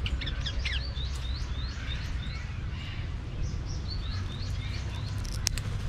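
Birds chirping: short high chirps repeating quickly, a few each second, over a steady low rumble. Two sharp clicks come near the end.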